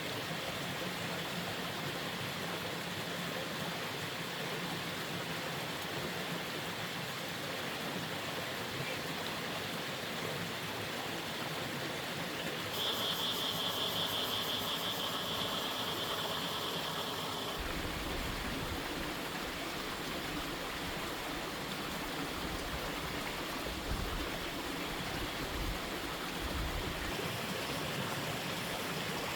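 Steady rushing of running water, like a stream. A high, steady buzzing tone joins it for about five seconds midway, and a low rumble comes in after it stops.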